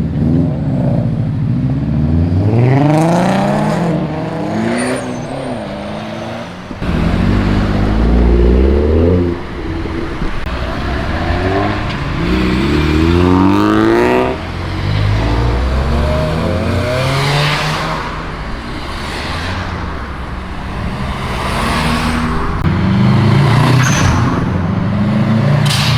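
A series of cars accelerating past one after another, each engine note rising in pitch as it revs up, about five times.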